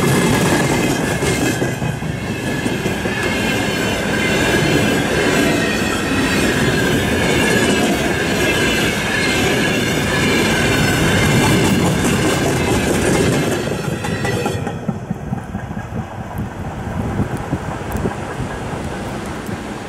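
Freight train wagons rolling past at speed: wheels clattering over the rail joints, with a high, wavering squeal above the rumble. About fifteen seconds in the last wagon passes and the noise falls away to a quieter rushing hiss.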